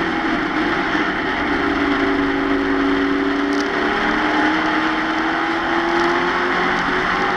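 Race truck engine at full race pace, heard from inside the cab with heavy road and wind noise. The engine note dips briefly, then climbs steadily over several seconds as the truck accelerates.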